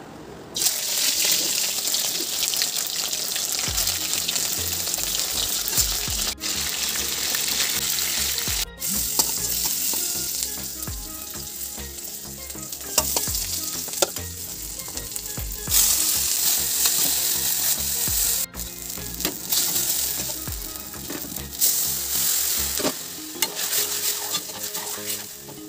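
Food frying in hot oil in an iron kadai, a loud continuous sizzle with a spatula stirring through it, breaking off briefly a few times.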